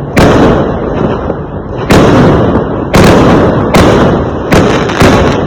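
Fireworks going off: about six loud bangs, irregularly spaced, each trailing off in a rumbling echo.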